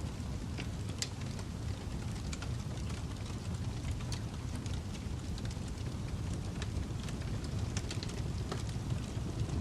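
Fireplace fire crackling: a steady low rush of burning with irregular sharp pops and snaps.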